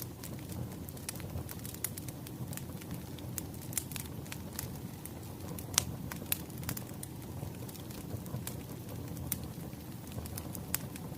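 Wood fire crackling: irregular sharp pops and snaps over a steady low rumble of burning logs, the loudest snap about six seconds in.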